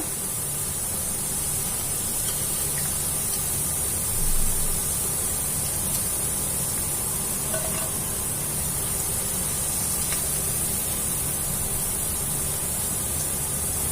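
Soya chunks sizzling steadily in hot oil as they finish deep-frying and are scooped out, briefly a little louder about four seconds in.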